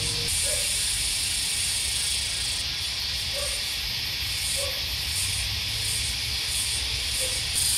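Cicadas buzzing in a steady, loud, high-pitched chorus. A shriller layer drops out early on, then pulses on and off, and comes back strongly near the end.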